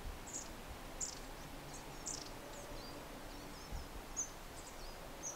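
Faint, short, high chirps of small birds, about ten scattered calls, over a low steady outdoor background rumble.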